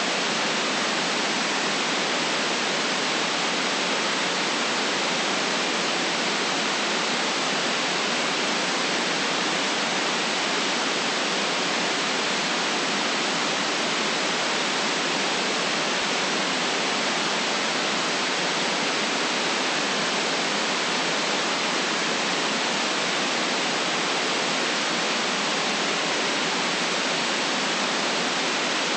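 Steady white noise: an even, unbroken hiss with no rise, fall or separate sounds in it.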